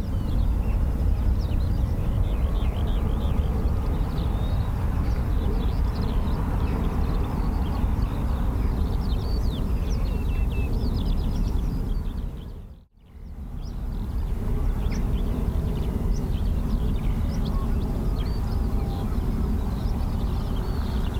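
Outdoor ambience: birds chirping over a steady low rumble. The sound drops out briefly about two-thirds of the way through, then resumes.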